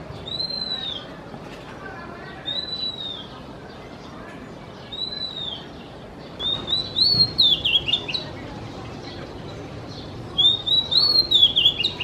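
Oriental magpie-robin singing: three single rising-and-falling whistles a couple of seconds apart, then two longer, more varied phrases of quick whistled notes, the second near the end.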